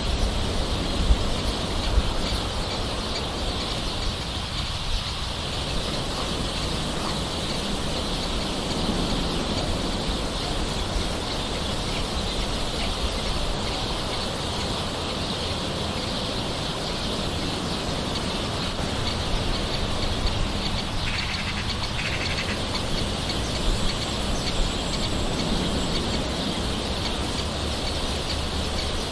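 Steady gentle rain hiss with birds calling in the background, including a couple of short chirps about two-thirds of the way through.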